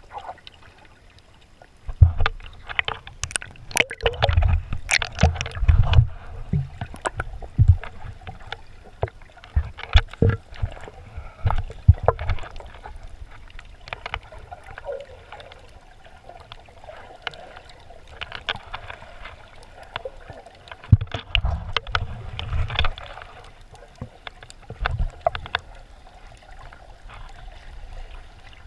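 Shallow sea water sloshing and gurgling, with irregular clusters of knocks and low thuds that come and go.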